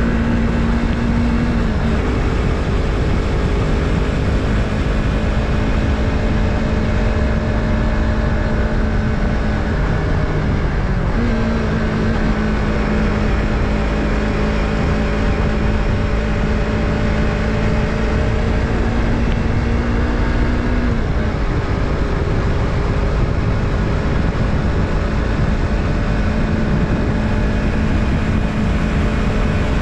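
Yamaha MT-03's 321 cc parallel-twin engine running under way at a steady cruise, its note shifting a few times as the throttle changes, with a brief break in the steady tone about ten seconds in.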